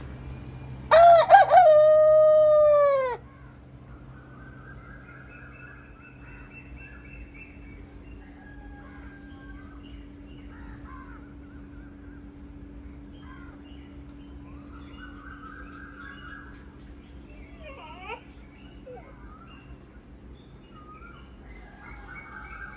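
A rooster crows once, loud and close, a single drawn-out cock-a-doodle-doo of about two seconds that falls in pitch at the end. Fainter calls of other birds follow.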